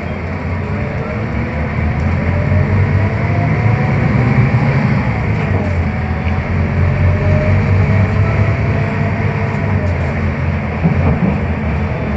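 Scania K320UB hybrid bus drivetrain running as the bus drives, heard inside the passenger cabin: a heavy low rumble that swells about two seconds in, with a faint whine gliding up and down in pitch.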